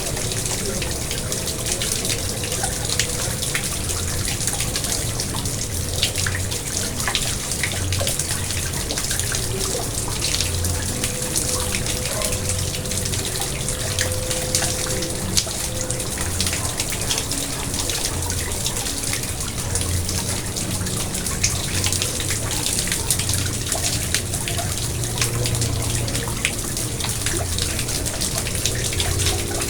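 Garden pond water splashing and trickling steadily, with a dense patter of small drips and splashes throughout.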